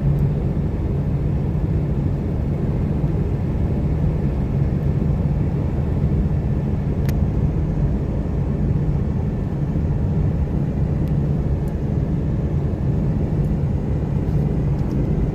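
Steady low rumble of a car on the move: engine and road noise, unchanging throughout.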